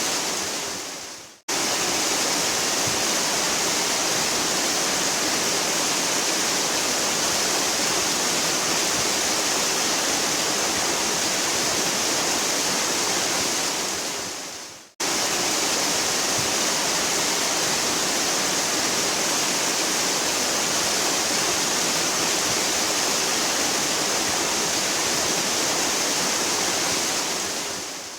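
Waterfall rushing with a steady, hard roar of falling water. It fades away and cuts straight back in twice, about a second and a half in and halfway through.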